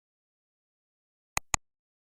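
Silence, then two sharp clicks about a fifth of a second apart near the end.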